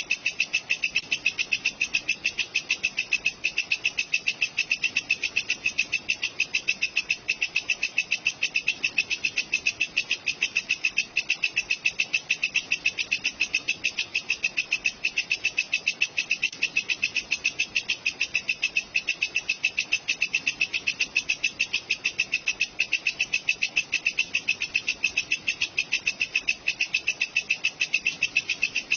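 Walang kecek katydid calling: a fast, even, unbroken train of high-pitched chirping pulses that does not change.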